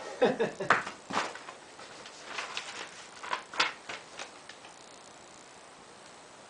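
Parts of a Harbor Freight solar panel kit being handled: a run of irregular clicks, taps and light knocks, busiest in the first second or so, dying away after about four seconds.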